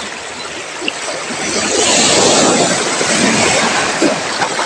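Sea waves surging and washing over a rocky shoreline, the rush swelling up about a second and a half in and easing off toward the end.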